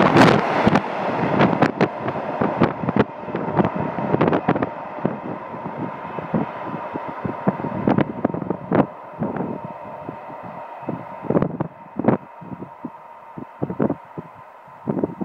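Freight train wagons rolling past, their wheels clicking and clunking over the rail joints, with the rumble fading as the train moves away. Wind buffets the microphone.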